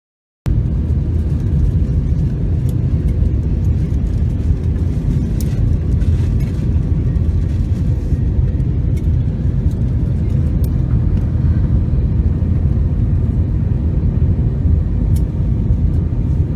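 Airliner cabin noise during landing: a loud, steady low rumble of engines and airflow, starting abruptly about half a second in, with a few faint clicks and rattles.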